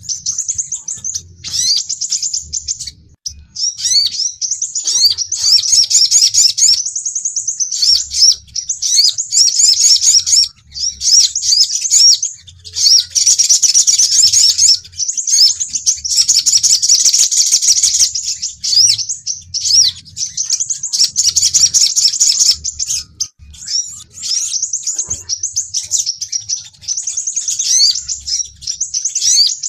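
Sunbird lure song of the sogon and sepah raja (crimson sunbird): a fast, high-pitched twitter of quick rising and falling chirps, nearly continuous with a few short breaks. It is a lure and provocation call, meant to draw in and challenge birds of the same kind.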